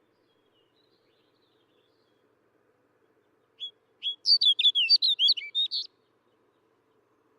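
Snow bunting singing: one short song phrase, a quick run of warbled whistled notes lasting about two seconds, starting about three and a half seconds in after a single lead-in note.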